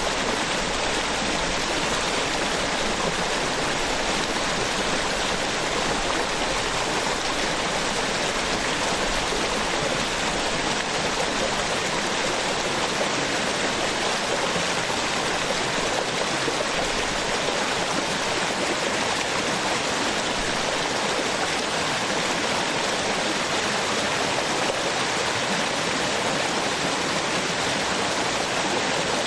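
Small waterfall on a stream, water splashing and rushing steadily.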